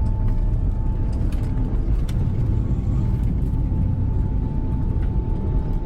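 Steady low rumble inside the cabin of an Airbus A380 climbing out just after liftoff, with its engines at takeoff power, and a faint steady high hum running through it.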